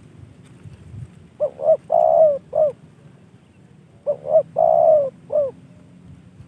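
Spotted dove (tekukur) cooing its song twice. Each phrase is two short coos, a longer drawn-out coo and a final short coo, all with falling ends.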